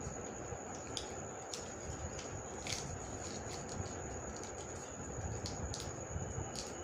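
Paper being folded and creased by hand, with scattered soft crinkles and clicks over a steady background hiss and a faint high-pitched tone.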